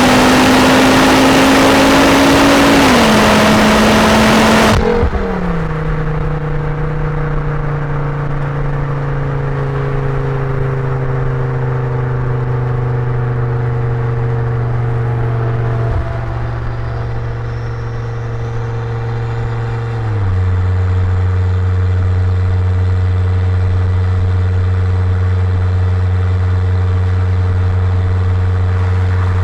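2006 Volvo S60R's turbocharged inline five through a custom Eurosport exhaust and 3-inch downpipe. For the first few seconds it pulls under loud wind rush, its note rising and stepping down once as a gear changes; about five seconds in the rush cuts off and the engine settles into a steady exhaust drone whose pitch sinks slowly, then drops again about twenty seconds in as a higher gear is taken.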